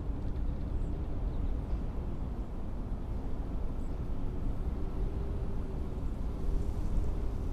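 Blizzard wind blowing as a steady, rough low rumble.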